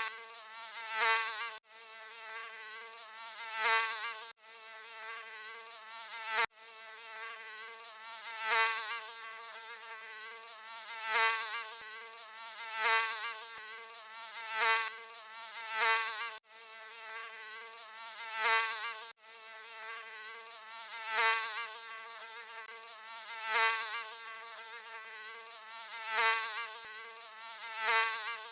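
Mosquito buzzing: a thin, high whine that swells louder every two seconds or so, as if the insect passes close by. It cuts out abruptly for an instant a few times where the recording loops.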